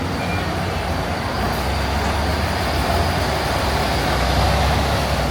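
Roadside traffic noise. A heavy vehicle's deep engine rumble swells, loudest near the end, as it passes close by.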